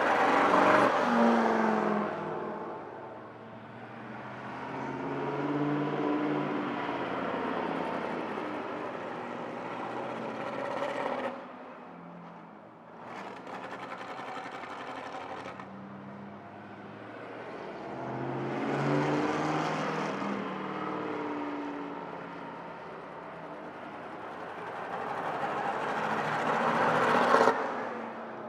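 Vintage straight-eight car engines revving up and driving past several times, pitch climbing and falling with each swell. The loudest passes come near the start and just before the end.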